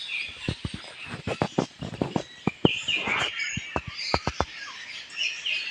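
Small songbirds chirping, short repeated high notes overlapping. Through most of the first four and a half seconds, a rapid irregular series of sharp clicks or knocks sounds over them, louder than the birdsong.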